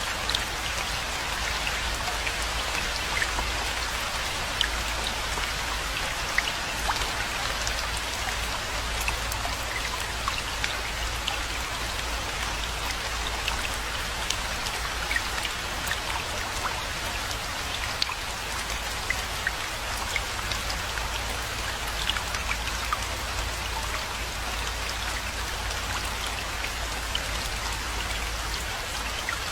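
Steady rainfall, with many separate drop impacts heard close by throughout, over a steady low rumble.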